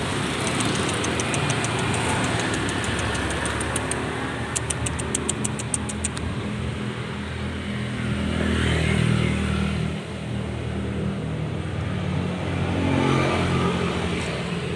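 Motor vehicle engine running close by in street traffic, swelling louder about nine seconds in and then easing off. A brief rapid ticking comes about five seconds in.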